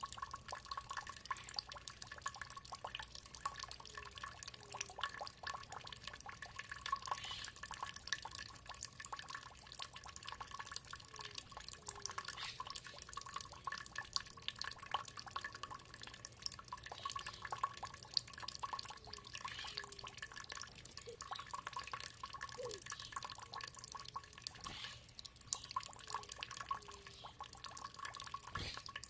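Running water, a steady trickle of many small drops and splashes.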